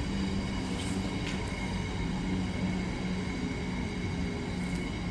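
A train running through the station: steady rolling rail noise with a steady low hum.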